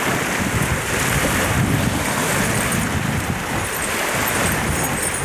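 Wind-driven lake waves washing onto the shore, mixed with wind buffeting the microphone: a steady rushing hiss over a low rumble.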